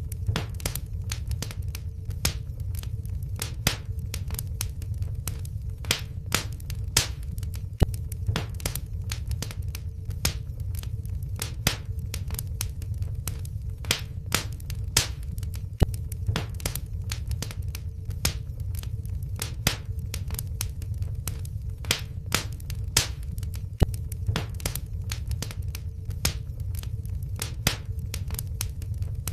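Wood fire crackling in a fireplace: frequent sharp, irregular pops and snaps over a steady low rumble of burning logs, with a faint steady hum beneath.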